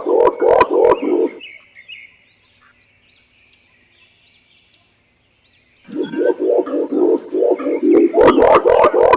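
Green imperial pigeon calling: a rapid run of deep hooting notes that stops about a second and a half in, and another run starting about six seconds in. In the gap between them, faint high chirps of small birds.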